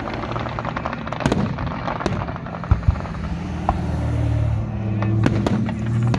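Fireworks bursting: a string of sharp bangs, some in quick pairs, over a crackling haze. Low held tones come in about halfway through.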